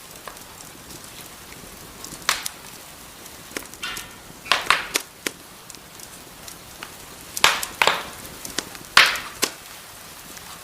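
Wood fire in a fireplace crackling: a steady soft hiss broken by a handful of sharp pops and snaps, the loudest near the end.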